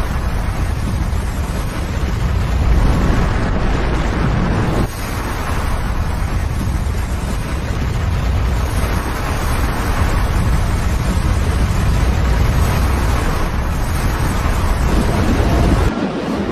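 Avalanche of snow and debris crashing down a mountainside into a river: a continuous heavy rumble and rushing roar, deepest in the low end.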